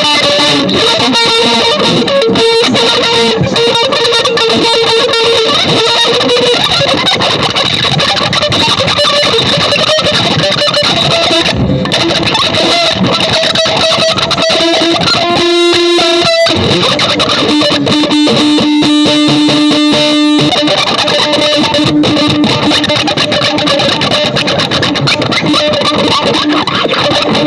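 Loud, dense experimental music with a distorted, effects-laden electric guitar sound: held notes that shift in pitch over a thick noisy wash, thinning out briefly a few times midway.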